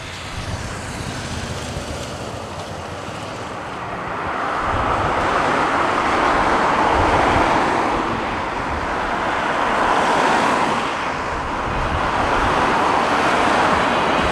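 Jet engines of a passing Boeing wide-body airliner, a steady rushing noise that grows louder about four seconds in and swells and eases as it goes by, with wind buffeting the microphone.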